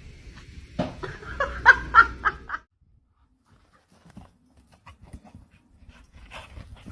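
A dog making a quick run of short, high-pitched calls for about two seconds. The calls cut off suddenly, and only faint scattered sounds follow.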